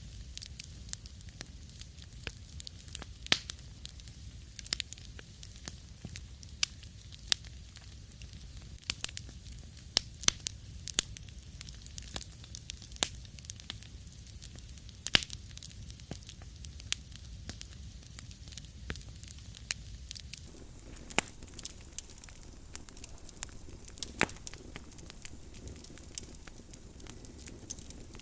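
Wood fire crackling in a fireplace: irregular sharp pops and snaps over a low steady rumble. The background changes slightly about twenty seconds in.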